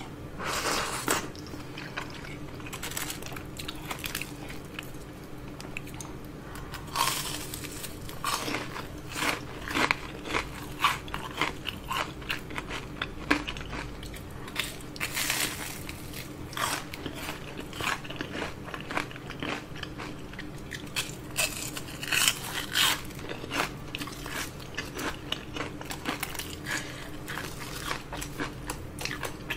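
Close-miked eating: crispy batter of fried shrimp crunching in irregular bursts as it is bitten and chewed. There is a sip from a bowl about a second in.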